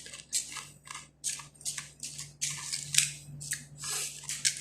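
Crunchy kubus (Arabic flatbread) being chewed close to the microphone: a quick, irregular run of crunches, about four a second, over a faint steady hum.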